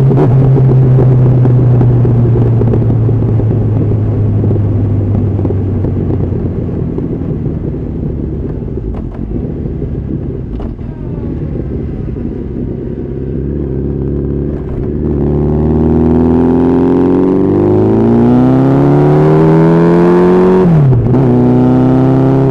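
Honda CB1300SF's inline-four engine heard from the rider's seat over wind noise: a steady cruising note, then the engine eases off for several seconds. It then pulls hard with a rising note and drops suddenly in pitch at an upshift near the end before settling again.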